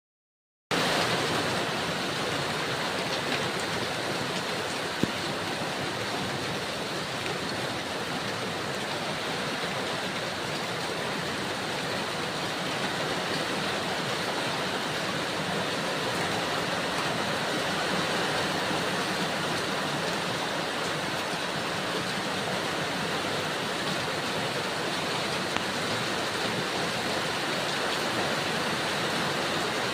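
Heavy rain pouring down, a dense, steady hiss with no letup, and a single sharp tick about five seconds in.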